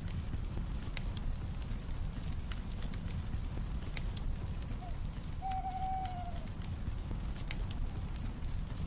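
Campfire crackling, with scattered sharp pops over a low steady rumble, under a steady high trill of night crickets. About five seconds in an owl gives a short hoot, a brief note followed by a longer one that falls slightly at the end.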